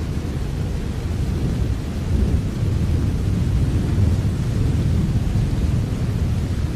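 Steady rain with a heavy low rumble beneath it, even and unbroken.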